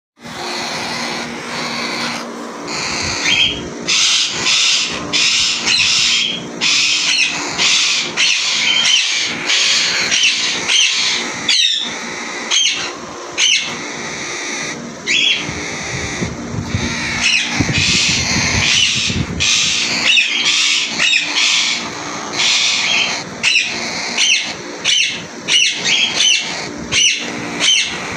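A flock of caged parrots chattering and calling: many short, sharp, overlapping calls with quick up-and-down pitch flicks, without let-up.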